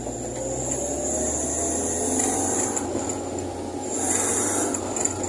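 Fiat 147 race car's four-cylinder engine running under way, heard from inside the cabin, its pitch slowly rising over the first few seconds as the car accelerates.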